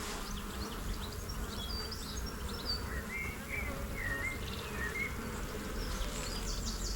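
Honeybees buzzing steadily around an open hive while its frames are being inspected.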